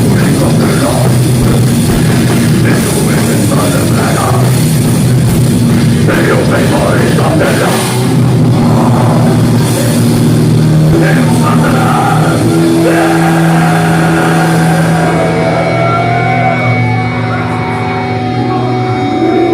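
Heavy metal band playing live and loud, with distorted guitars, drums and vocals. From about three-quarters of the way in, the high crash of the drums falls away and a few held notes ring on.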